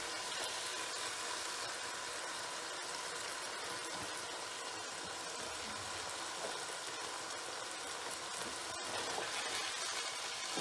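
Minced chicken sizzling in a non-stick wok on high heat, a steady hiss, as spooned-in yogurt is stirred through it with a wooden spatula.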